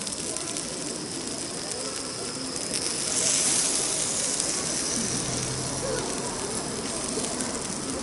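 Meat sizzling over charcoal on a shichirin grill: a steady hiss with small crackles that swells about three seconds in.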